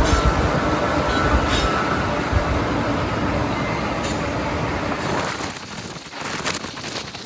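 Freight train rolling by: a steady low rumble of the train with faint thin squealing tones from the wheels. About five seconds in the rumble falls away and wind buffets the microphone.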